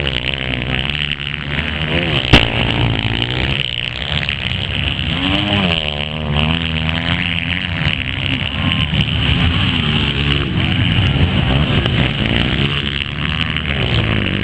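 Motocross dirt bike engines revving, the pitch repeatedly rising and falling as throttles open and close, with a single sharp knock about two seconds in.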